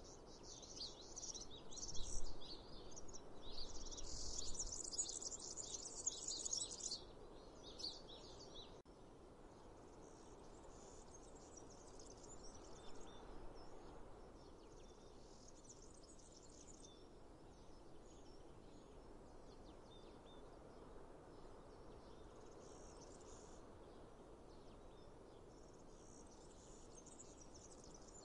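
Birds chirping and singing over a steady background hiss. The chirping is busy and loudest in the first several seconds, then turns sparse and faint.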